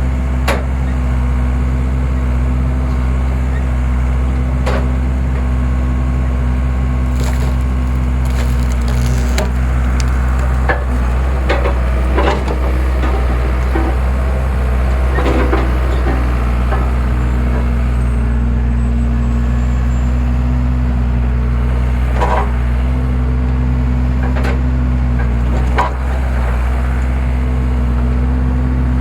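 A skid steer engine runs steadily while logs crack and splinter as the homemade skid-steer log splitter forces them apart. There are several sharp cracks, with a busy run of them in the middle and a few more later.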